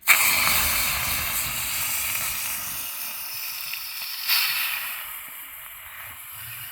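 Partridge pieces dropped into a hot pan, sizzling loudly at once and slowly dying down, with a short flare of sizzling about four seconds in.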